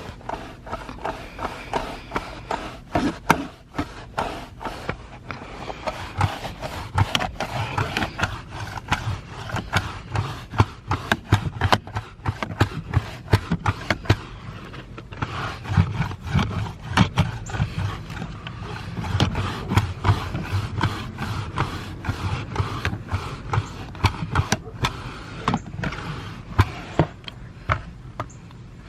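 Irregular knocks, clicks, rustles and scrapes of hands working at cleaning a car's interior.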